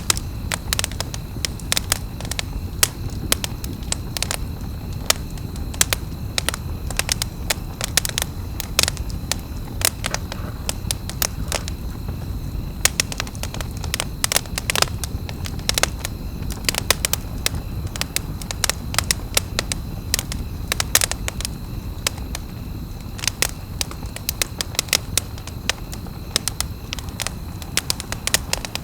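Wood campfire crackling and popping: many irregular sharp pops, several a second, over a steady low rumble of burning flames.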